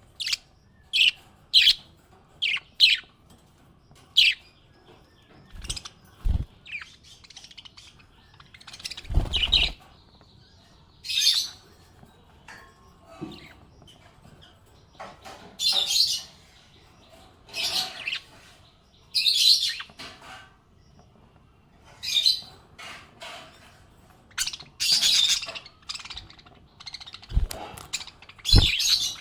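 Small pet parrots chirping: quick, sharp chirps about every half second at first, then longer, scratchier chirping bouts every second or two. A few dull low thumps come in between.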